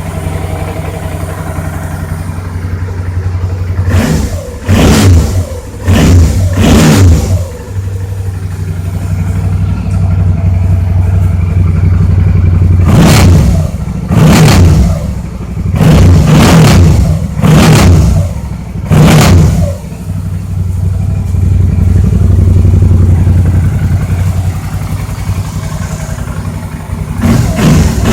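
Suzuki V-Strom 650's V-twin engine idling with the throttle blipped in quick revs: three short revs about four seconds in, a run of about five a few seconds later, and more at the end.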